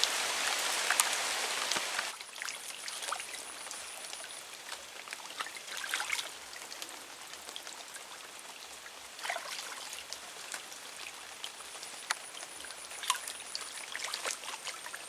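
Rain falling: a steady hiss with scattered drops ticking, louder for the first two seconds and then softer.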